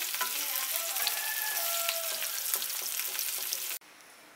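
Cauliflower florets sizzling as they fry in hot refined oil in a non-stick kadai, with light scrapes and clicks of a wooden spatula moving them in the pan. The sizzle cuts off suddenly near the end.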